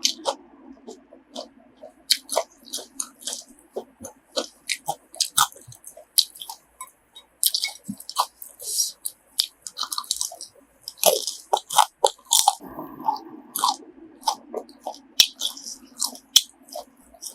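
Close-up chewing and biting of grilled pork intestine and pork heart, a rapid run of short, sharp mouth clicks and crunches.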